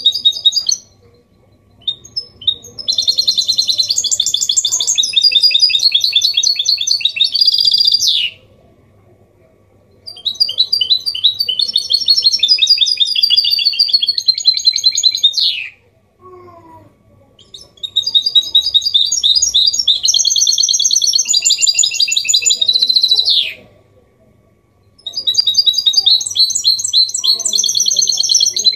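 Goldfinch mule (mixto hybrid) singing a clean Málaga-copy style song in long, fast twittering phrases, four bursts of about five seconds each broken by short pauses.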